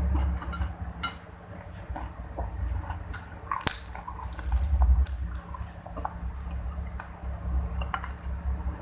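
A person eating fried rice close to the microphone: wet chewing and biting, with scattered sharp crisp crunches and clicks, the loudest about a second in and again around the middle.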